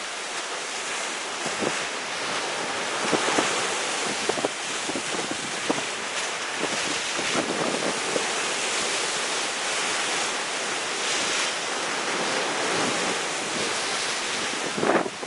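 Sea waves breaking against the rocks at the foot of a cliff: a continuous rushing surf with a few brief louder surges as waves hit.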